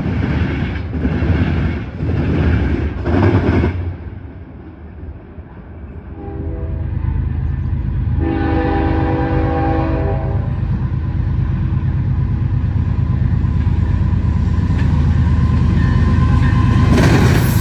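Railroad cars clattering over rail joints in a steady rhythm about once a second, dying away after about four seconds. Then a train horn sounds a short blast and a longer one, and a locomotive's low rumble builds, getting louder toward the end.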